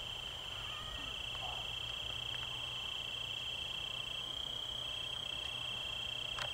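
Crickets trilling, one steady, unbroken high-pitched trill, with a faint click near the end.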